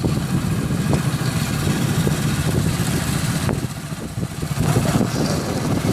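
Motorcycle engine running. It eases off a little past the middle and picks up again toward the end.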